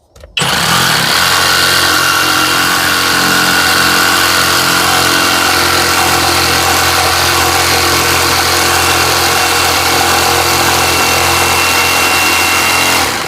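Jigsaw with a bigger-tooth blade starting up and running steadily as it cuts through two layers of board, then stopping near the end. The blade cuts easily.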